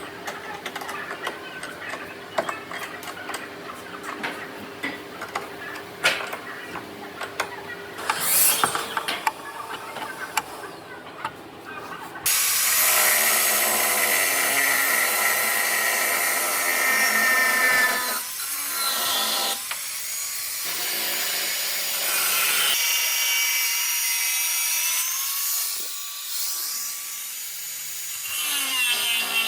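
Light knocks and scraping on wood, then about twelve seconds in a power tool starts abruptly and runs loudly on wood with a steady whine, dipping and changing pitch now and then.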